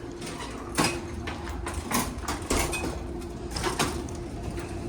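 Muffled gunshots from other shooters on an indoor range, five sharp irregular bangs with a quick pair near the end, over a steady hum.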